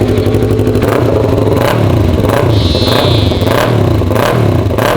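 Yamaha R3 parallel-twin sport bike with an aftermarket exhaust, revved in quick throttle blips, the revs rising and falling over and over, a little faster than once a second.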